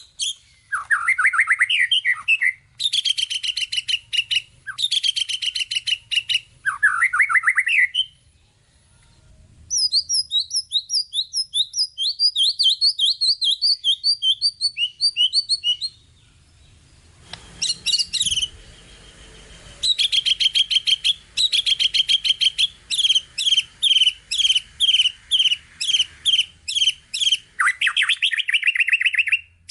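White-rumped shama (murai batu) singing a long, varied song: fast strings of repeated high notes, rapid trills and quick down-slurred phrases, with a short break about a third of the way in.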